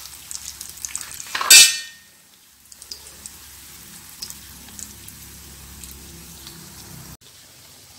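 Thick egg-and-vegetable omelette frying in plenty of hot oil over a low flame, a steady crackling sizzle with small pops. A short, loud burst of noise comes about one and a half seconds in.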